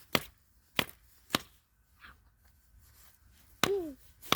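A wooden axe striking a stone, three sharp blows about half a second apart.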